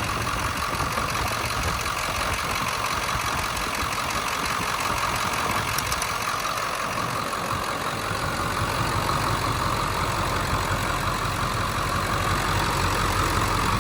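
1999 Ford F-250's 7.3L Powerstroke V8 turbo-diesel idling steadily during a blow-by check, which shows absolutely zero blow-by: the engine is healthy.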